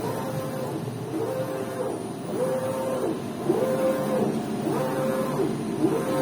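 Prestige 60x90 UV flatbed printer's print-head carriage moving back and forth: its drive motor whine rises, holds steady and falls away on each pass, about once every second and a bit.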